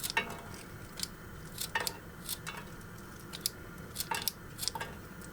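Light, irregular clicks and clinks of kitchen utensils against a small frying pan while fresh chives are prepared for cooking.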